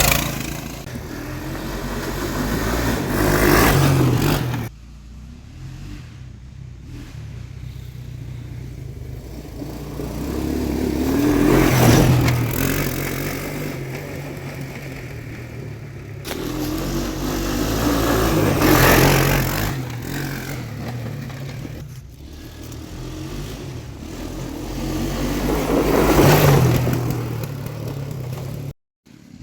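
Small gasoline engine of an off-road mini vehicle revving up and easing off as it runs a dirt course. It swells loud four times and fades between, with sudden jumps in sound where the footage is cut.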